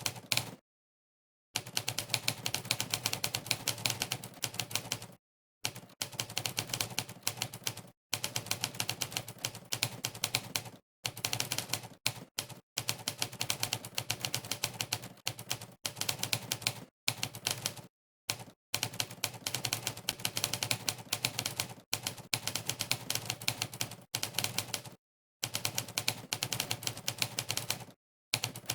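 Typewriter keystroke sound effect from a typing-test website, one sampled clack per key pressed, fast and uneven, in runs of a few seconds broken by short gaps of dead silence.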